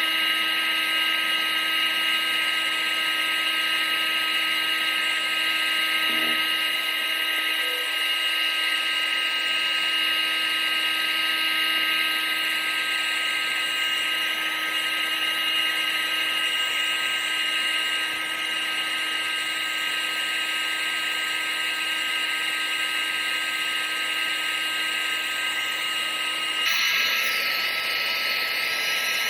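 Vacuum cleaner motor running steadily, a high whine over a wide rushing hiss, with a brief shift in tone near the end.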